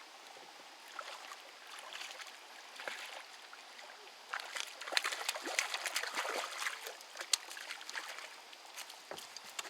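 Water splashing and trickling with many small crackling clicks, rising to a busy, louder flurry from about four to seven and a half seconds in.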